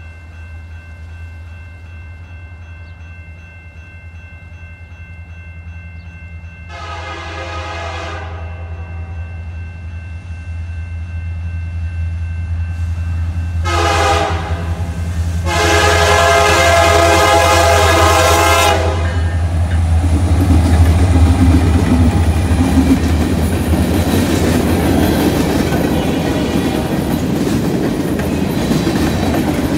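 Freight train approaching with its diesel locomotives droning, growing steadily louder. The locomotive horn sounds three blasts, the last and longest lasting about three seconds. After about twenty seconds the locomotives pass and the rumble and clickety-clack of freight cars rolling over the rails takes over.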